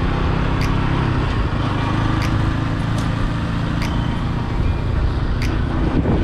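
Motorcycle engine running steadily while riding, with road and wind noise on the rider's microphone, and a few sharp clicks at irregular intervals.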